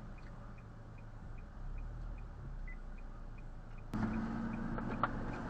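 Car road and engine rumble picked up by a dashcam, with faint regular ticking. About four seconds in it steps up to a louder, steadier hum.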